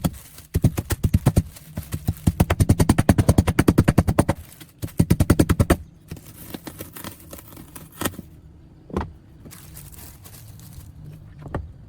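Rapid mechanical hammering, about ten blows a second, in three bursts with short breaks, then stopping about six seconds in, followed by a few scattered single knocks.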